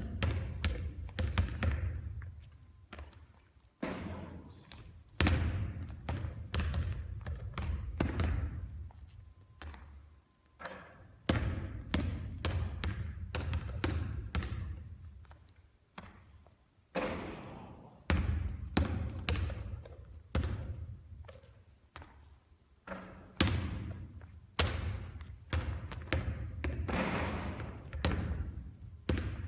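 A basketball bouncing on a court floor again and again, in runs of bounces broken by short pauses, during repeated three-point shooting practice.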